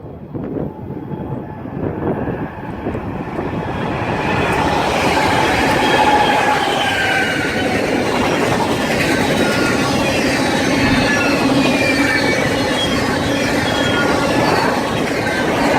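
A BNSF train passing, its steel wheels rolling on the rails with faint high squealing tones above the rumble. It builds over the first few seconds and then stays loud.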